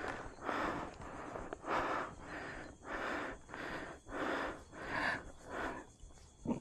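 A hiker panting hard while climbing a steep trail: quick, even breaths in and out, about two a second, the sign of a hard uphill effort.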